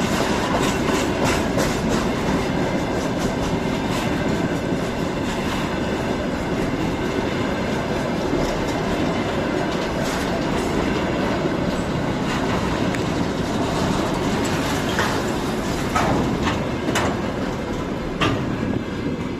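Freight train wagons rolling past, a steady rumble with wheels clicking over the rail joints, and a few louder knocks near the end.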